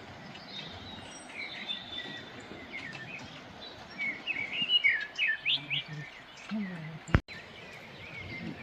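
Small birds chirping and twittering in short, rapid calls over a steady outdoor hiss, busiest about four to five seconds in. A sharp click sounds a little after seven seconds.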